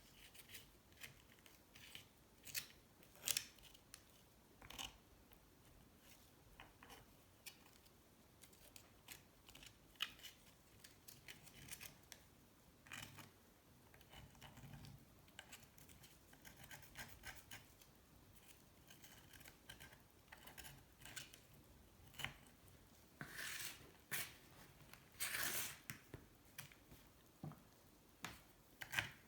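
Faint, irregular scrapes and clicks of a metal hand tool working on the motorcycle's engine case parts, with two longer scrapes near the end.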